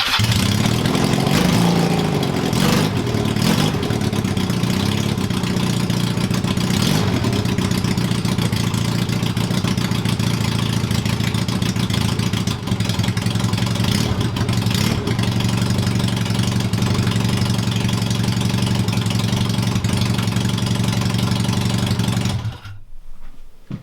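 Honda CB250 motorcycle engine running through loud straight exhaust pipes without silencers, on choke and with the carburettor not yet rejetted. It is blipped up and down in the first few seconds, then settles to a steady idle and is shut off near the end.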